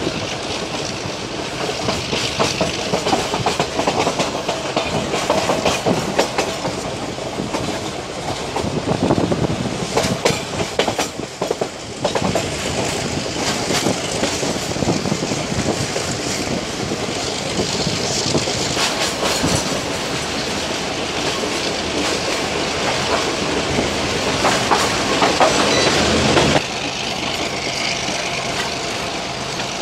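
Metre-gauge train heard from on board while running, wheels clicking and rattling over the rails with wind noise, passing through a tunnel in the middle; the noise drops abruptly a few seconds before the end.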